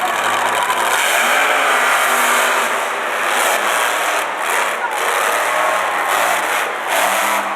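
Monster truck engine running loud, with crowd voices mixed in.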